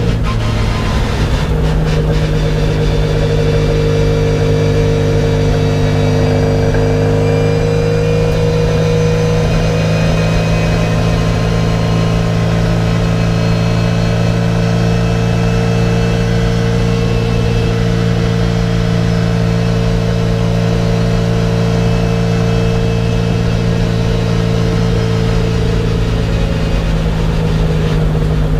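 Race car's engine heard from inside the cockpit, running hard under load on track. Its pitch rises gently over the first several seconds, then holds steady.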